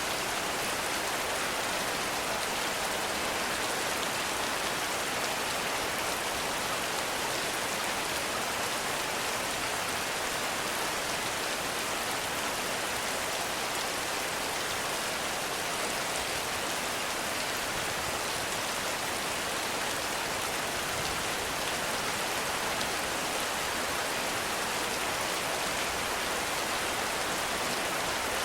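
Heavy rain falling steadily, a dense, even hiss of drops with no breaks or thunder.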